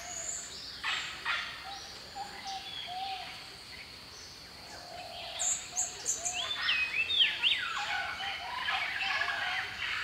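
Rainforest bird chorus: several birds calling at once, with runs of short low hooting notes under higher chirps and whistles, busier in the second half, over a steady high insect drone.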